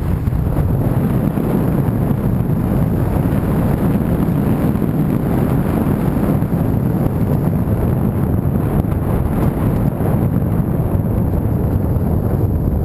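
Vehicle on the move: a steady rumble of engine and road noise, with wind buffeting the microphone.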